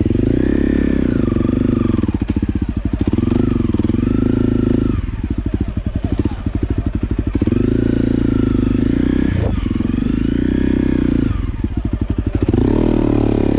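Motorcycle engine running under way, its revs rising and falling again and again as the throttle opens and closes.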